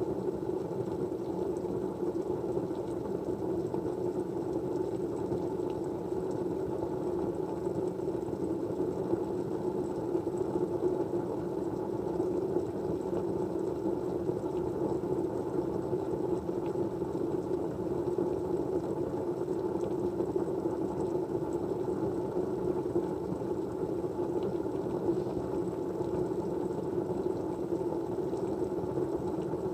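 Steady, even white noise with a dull, low-pitched rush and no change throughout, a thin high whine above it and a few faint ticks.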